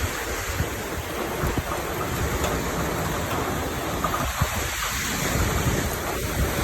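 Storm wind and rain: a steady rushing noise, with gusts buffeting the microphone in low rumbles.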